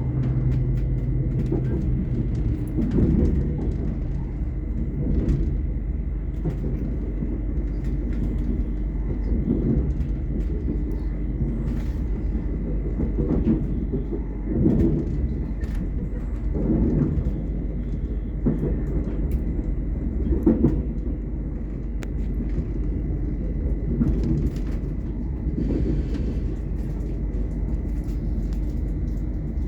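Class 800 IET train heard from inside the carriage: a steady low rumble with a thin, faint high whine, and soft knocks every second or two.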